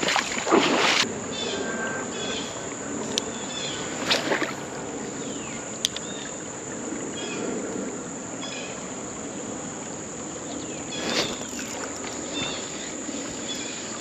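Footsteps wading through shallow creek water, the water sloshing and splashing unevenly with each stride; the loudest splashes come right at the start and again about eleven seconds in.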